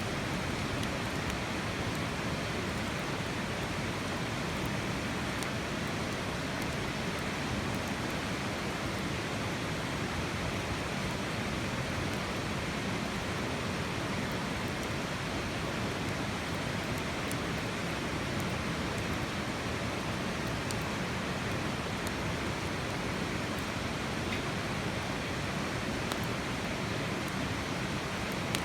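Campfire crackling faintly in sparse small ticks over a steady, even rushing noise.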